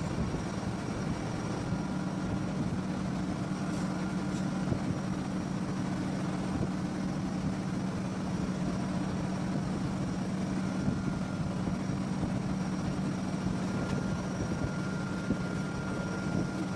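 AC electric motor running with a steady low hum.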